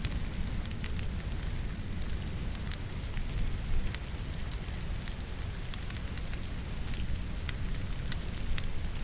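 Wood logs burning in a fireplace, crackling and popping at uneven times over a steady low rumble, mixed with a constant hiss of rain.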